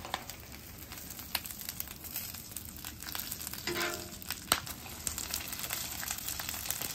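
Bacon, bologna and buttered bread frying on a gas flat-top griddle: a steady sizzle, broken by sharp clicks and scrapes of a metal spatula on the cooktop.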